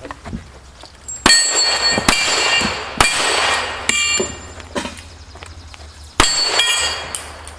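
Gunshots at steel targets, each hit followed by the steel ringing: four shots, irregularly spaced, with a pause of a few seconds before the last.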